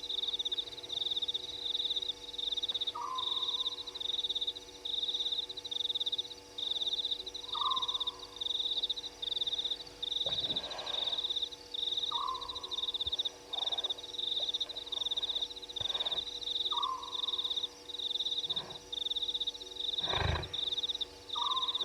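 Night insects chirping in loud, steady pulses, with a short falling call repeated about every four and a half seconds. Near the end a deep call breaks in: a lion starting to roar.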